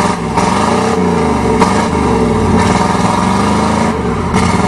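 1988 Chevrolet pickup's 305 V8 engine revving hard while driving in mud, its pitch rising and falling several times.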